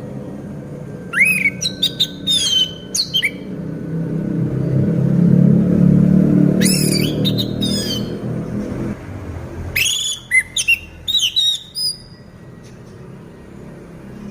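Caged orange-headed thrush in moult singing in three bursts of quick, varied whistled phrases that sweep up and down. A low rumble swells between the first two bursts and fades out before the last.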